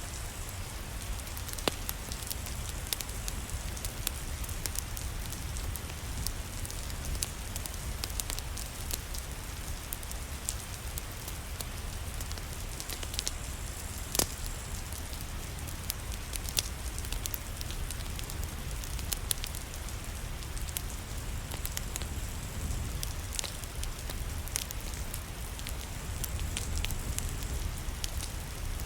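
Wood fire crackling in a fireplace, with irregular sharp pops, over a steady hiss of rain and a low rumble.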